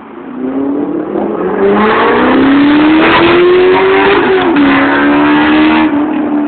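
Chevrolet Corvette V8 accelerating hard past at full throttle, loud, its engine note climbing steadily for about four seconds, then dropping sharply and holding steady as it goes by.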